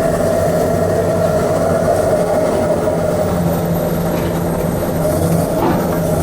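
Long-reach demolition excavator running steadily: a diesel engine drone with a steady hydraulic whine over it, dipping briefly about five seconds in.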